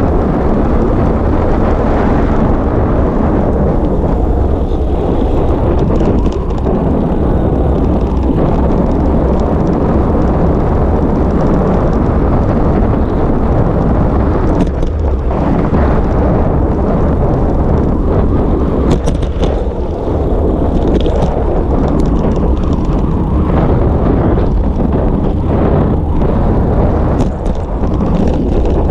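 Steady, heavy wind rumble on a bicycle-mounted action camera's microphone while riding along a road, with a few brief sharp rattles from bumps.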